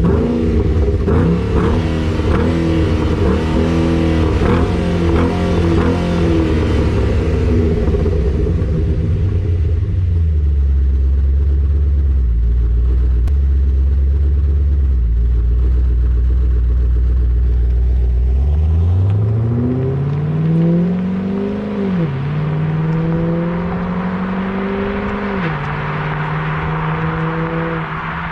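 Cammed L76 6.0 L V8 of a Pontiac G8 GT with a muffler delete, idling with the uneven, choppy lope of its GPI SS1 camshaft, then settling to a steady idle. About 18 seconds in it accelerates, the pitch climbing, with two upshifts a few seconds apart before it holds a steady cruise.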